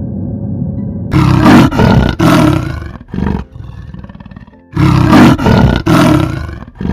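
Lion roaring in two bouts of deep, short, loud roars, the first starting about a second in and the second near the middle, with a pause between them.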